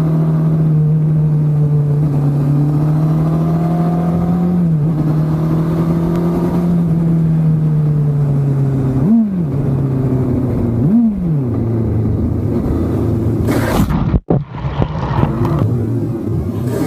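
Motorcycle engine running at a steady speed, then revving up and back down briefly twice midway before settling to a lower, steady note. A sudden break comes near the end, after which the engine sound changes.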